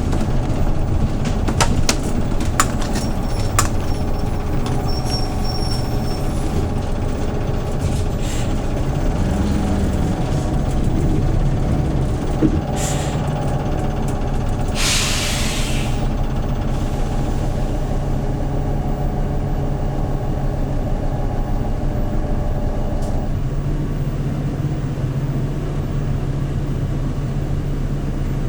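Hyundai New Super Aero City CNG city bus heard from inside the cabin: its gas engine runs steadily with a low drone, with a few sharp clicks in the first seconds. About halfway through comes a short burst of compressed-air hiss from the air brakes. Near the end the engine note shifts lower and louder.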